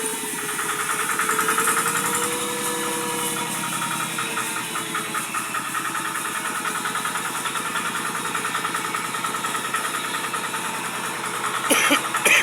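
Motor-driven feed grinding/crushing machine running steadily with a fast rhythmic rattle; a few sharp knocks sound near the end.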